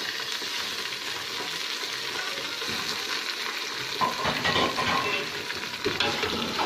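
Raw chicken pieces sizzling and crackling in hot oil with light-browned onions in a pressure cooker. From about four seconds in a metal spoon stirs them, adding scrapes and clinks as the frying grows louder.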